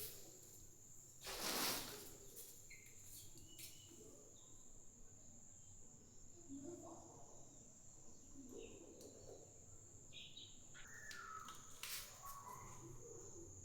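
Faint steady high-pitched insect trill, with scattered faint bird calls and a brief rustling noise about a second and a half in.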